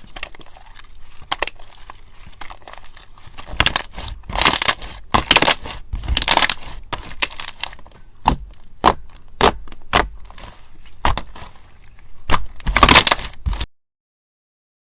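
Slime being squeezed and pressed by hand, giving crisp crackling and crunching pops in irregular clusters, softer at first and louder from a few seconds in. It cuts off suddenly shortly before the end.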